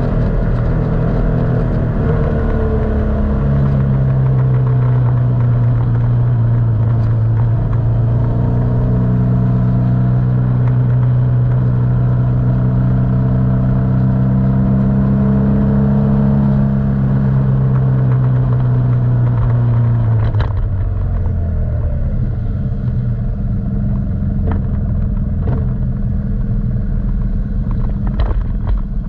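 Motorcycle engine running under way, holding fairly steady revs with slow small changes in pitch; about two-thirds of the way through the note drops and turns rougher as the throttle is eased off.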